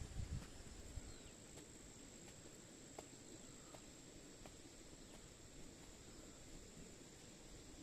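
Faint, steady, high-pitched trilling of insects, with a few faint ticks about three seconds in.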